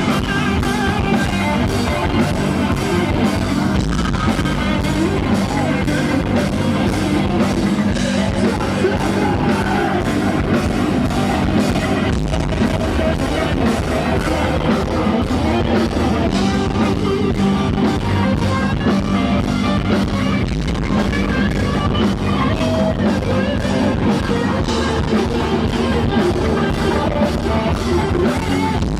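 Live rock band playing loudly: electric guitar, bass and drum kit with a singer's vocals.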